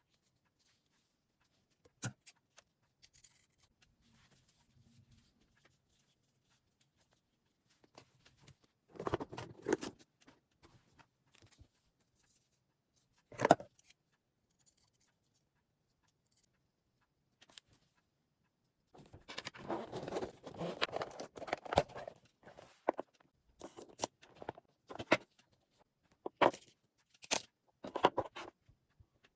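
A blanket's fabric being handled and cut. Intermittent rustling comes in short bursts, with scattered sharp clicks and snips, and there is a longer stretch of busy rustling about two-thirds of the way through.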